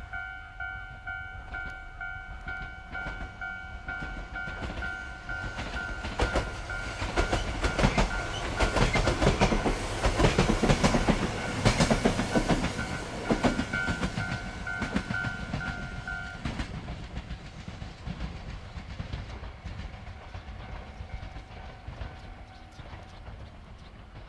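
Yoro Railway 600 series electric train passing, its wheels clattering over the rail joints, loudest about halfway through and then fading away. A level-crossing alarm rings in a steady repeated beat and stops about two-thirds of the way in, once the train has passed.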